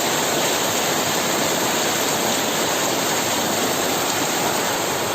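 Loud, steady hiss of water.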